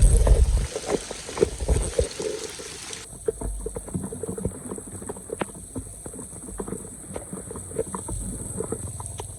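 Water splashing and sloshing at a flooded drain, with a heavy thump at the start and scattered sharp knocks and clatters.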